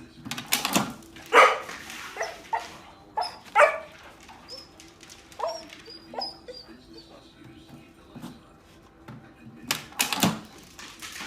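A dog barking and yipping in short, irregular bursts, with a cluster of barks in the first few seconds and two loud ones near the end.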